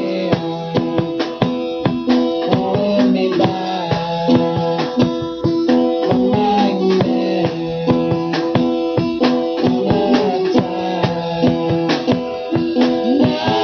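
Live band playing an instrumental passage: guitar with held notes bent up and down in pitch, over a steady drum beat.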